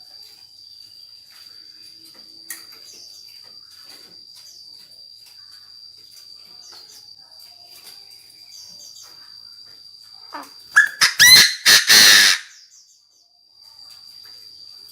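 Chinese francolin calling: a loud burst of several harsh, rapid notes about ten seconds in, over a steady high insect drone with faint chirps.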